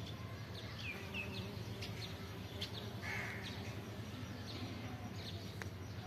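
Birds calling: short, high chirps and quick glides scattered throughout, over a steady low hum.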